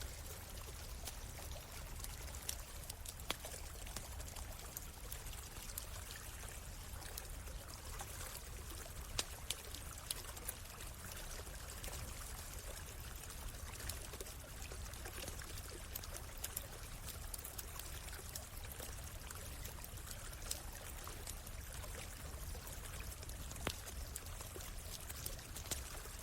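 Small stream running steadily over stones, with a wood campfire crackling: scattered sharp pops and snaps over the water's steady rush.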